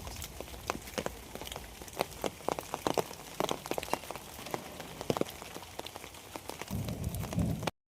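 Rain falling, with many separate drops striking close by. Near the end a low rumble rises for about a second, then the sound cuts off suddenly.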